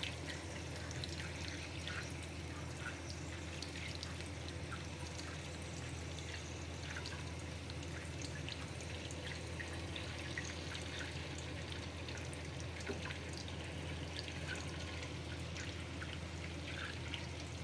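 Beef-mince chapli kababs frying in a shallow pan of hot oil: a steady sizzle dotted with small crackles and pops, over a steady low hum.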